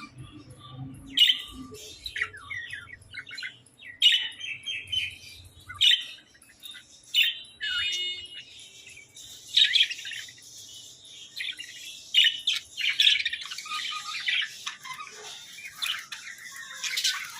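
Budgerigars chattering: a continuous run of quick, irregular chirps and warbles, broken every second or two by sharper, louder squawks.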